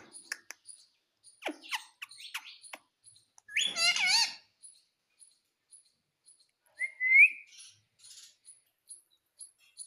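Ring-necked parrot chirping and calling: short chirps and clicks, one loud wavering call a little after three seconds, and a rising whistle about seven seconds in. Faint high ticks repeat in the background.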